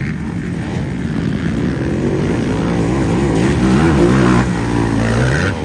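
Motocross bike engines on a dirt track, revving up and down through the gears, the pitch rising and falling and growing louder to a peak about three to four seconds in.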